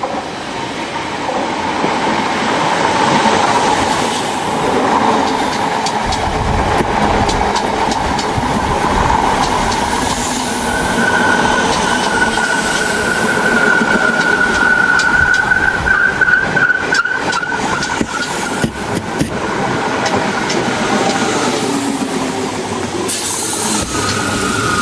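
A train running past, a dense rumble of wheels and machinery that builds over the first few seconds. A steady high whine comes in about ten seconds in and holds for about ten seconds, with a run of sharp clicks near the middle; another whine starts near the end.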